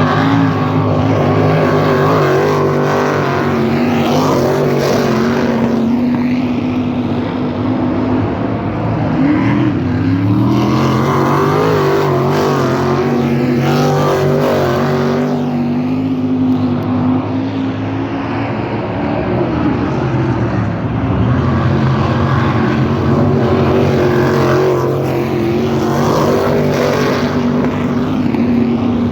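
410 sprint cars' V8 engines running laps on a dirt oval. Several engines drone together at speed, with the pitch dipping and climbing again twice, about a third and two thirds of the way through.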